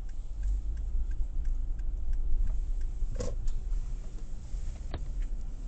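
Low, steady road and engine rumble heard inside a moving car, with faint regular ticking, a brief thump about three seconds in and a sharp click near the end.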